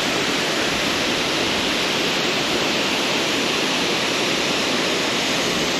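Waterfall in heavy flow after rain: a loud, steady rush of falling water.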